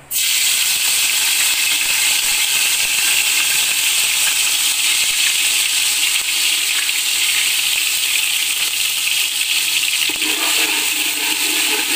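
Ginger-garlic paste dropped into hot mustard oil in a cooking pot, sizzling loudly. The sizzle starts suddenly as the paste goes in and holds steady as it fries.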